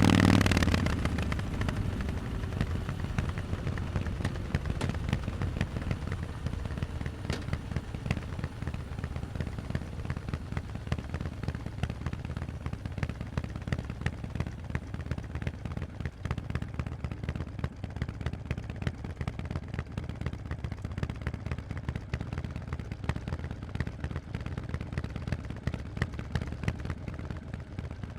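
Harley-Davidson Forty-Eight's 1200 cc air-cooled V-twin through Vance & Hines exhausts, its revs falling away at the start, then idling at low revs with a quick, uneven string of exhaust pulses.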